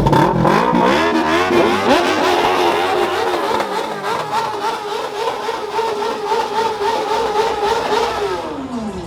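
A car engine revved up, held at high revs with a slight waver for several seconds, then let back down near the end.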